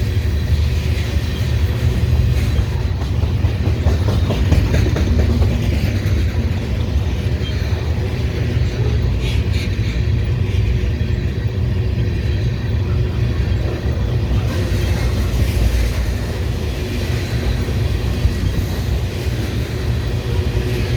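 Canadian Pacific freight train rolling past at track speed: a steady low rumble of wheels on rail.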